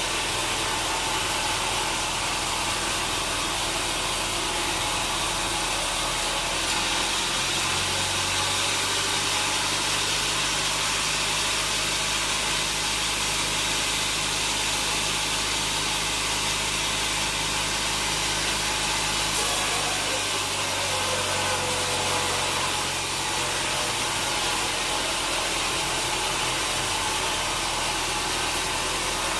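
Sawmill machinery running steadily with a constant loud noise; its low motor hum changes pitch about seven seconds in and again about twenty seconds in.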